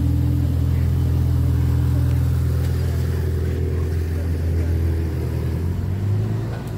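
A Ferrari's engine running at low revs as the car rolls slowly, a steady low drone that rises briefly in pitch about six seconds in.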